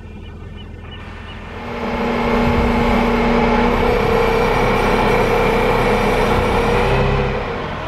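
A truck's engine running as it moves, coming up sharply about a second and a half in, holding steady and loud for about five seconds, then easing off near the end.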